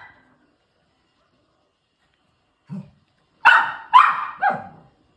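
A small dog barks three times in quick succession in the second half, after a short faint low sound.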